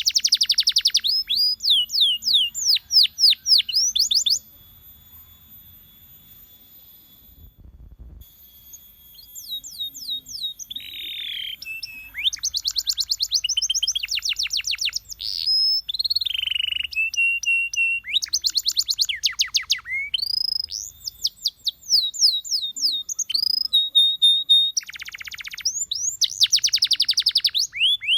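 Canary singing: runs of rapid trilled notes and sweeping whistles. The song breaks off for a few seconds after about four seconds, then resumes with more trills and some lower, held notes.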